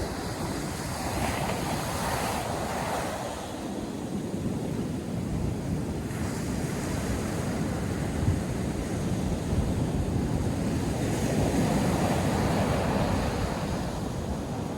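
North Sea surf breaking and washing on a beach, with waves swelling and falling in a continuous wash, and wind buffeting the microphone in the low end.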